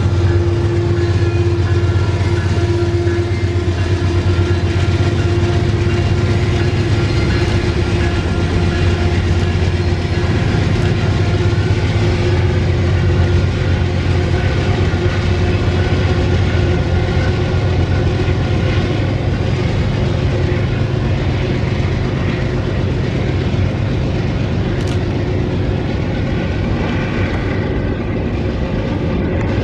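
Empty pulp freight train passing, its wagons rolling steadily on the rails with a continuous loud low rumble and a few steady tones over it.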